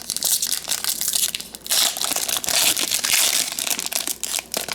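Trading card pack wrapper crinkling and being crushed as it is handled, a dense run of crackles.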